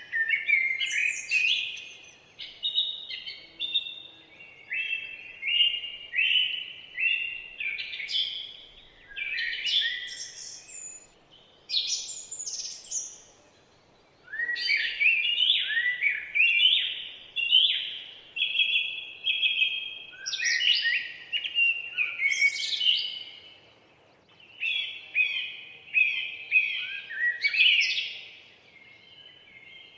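Several songbirds singing in a forest, a dense run of short chirping and warbling phrases that overlap, with brief lulls about halfway through and again near the end.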